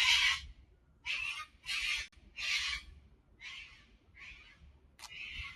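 A cockatoo screeching, a run of about seven harsh squawks each a fraction of a second long, fading toward the end.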